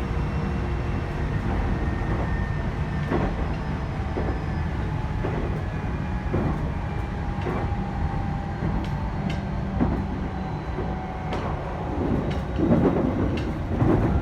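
Inside a JR E129 series electric train's motor car running at speed: a steady low rumble of wheels on rail with faint motor whine, scattered clicks over the rails, and a louder rush of noise near the end.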